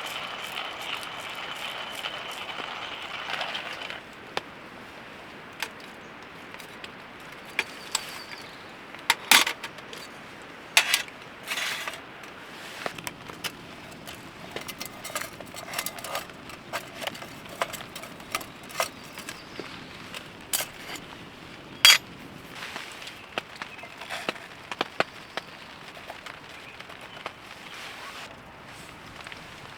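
Steady hiss of rain, with many scattered sharp clicks and knocks over it, a few of them loud. A louder hiss carrying a thin high tone stops suddenly about four seconds in.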